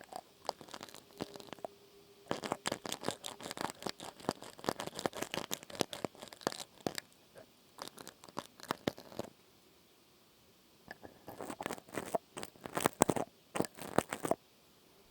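Close-miked crackling and crunching, dense rapid clicks in two runs with a short pause between, the kind of trigger sound made by handling something crisp right at the microphone.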